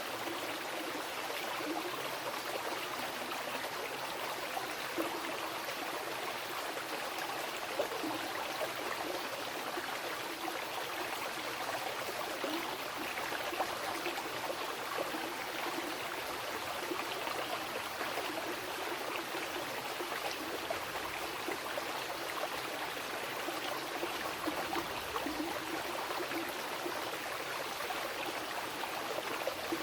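Mountain river flowing over rocks: a steady rushing and gurgling with small splashes.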